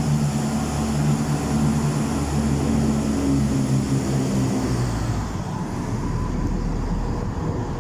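Class 170 Turbostar diesel multiple unit pulling away from the platform, its underfloor diesel engines working under power with a deep, steady engine note that fades about five seconds in as the train draws off.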